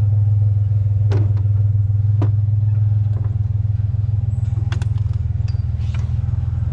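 Pickup truck engine idling steadily with a low hum, with a few sharp clicks and knocks on top of it.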